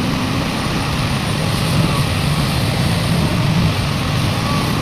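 Heavy diesel engines of a large excavator and dump truck running steadily, a continuous low engine rumble with no pauses or changes.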